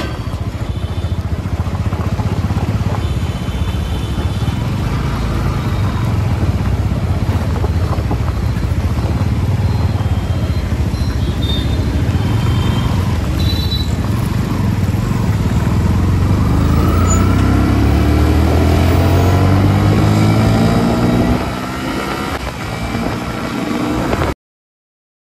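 Road vehicle engine running with steady road noise. About two-thirds of the way through, the engine note climbs steadily as it speeds up, then eases off, and the sound cuts off abruptly near the end.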